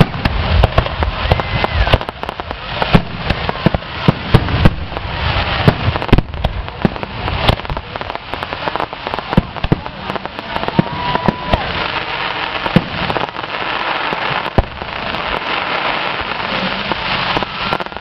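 Fireworks display: aerial shells bursting one after another, sharp bangs over a dense, continuous crackle.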